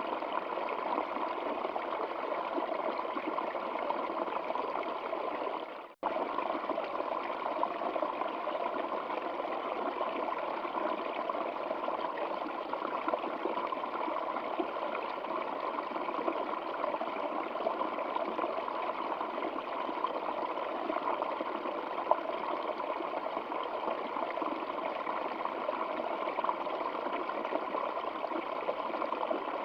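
Water flowing in a stream, a steady, even rush and trickle. It fades out for a split second about six seconds in, then returns unchanged.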